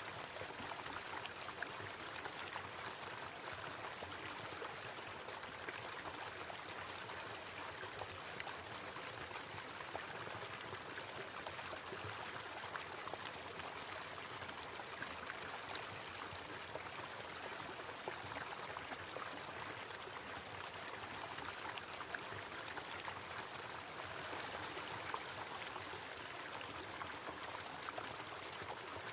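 Small waterfall running, a steady splashing rush of water.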